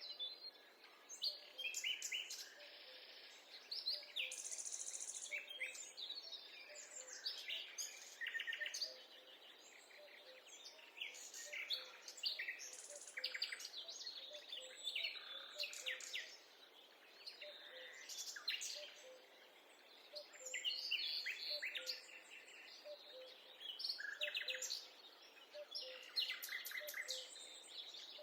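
Several birds singing and chirping at once, a busy chorus of short high chirps and trills with a softer low note repeating underneath.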